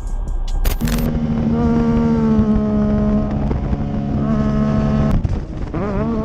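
Road vehicle noise with a steady, unchanging tone held for about four seconds that stops abruptly, followed near the end by a raised voice.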